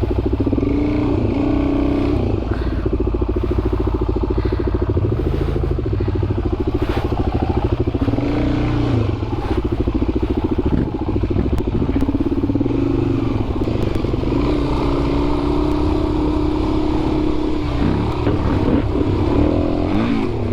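Dual-sport motorcycle engine running while riding a dirt trail, its pitch rising and falling several times with throttle and gear changes. Scattered short clicks and knocks come from the bike over rough ground.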